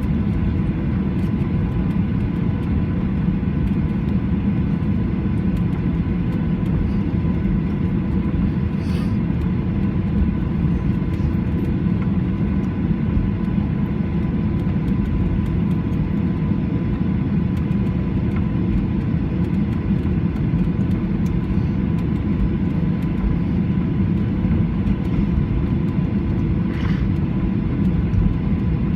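Steady low cabin rumble inside a Boeing 737-800 taxiing on the ground, its CFM56 engines at idle and the wheels rolling, with a faint steady whine above it.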